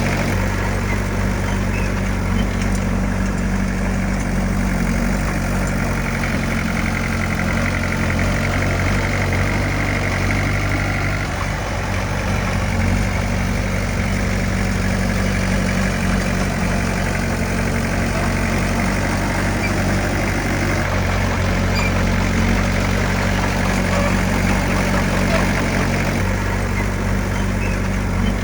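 Diesel engine of heavy earthmoving machinery running steadily, its note shifting a few times as the machine works.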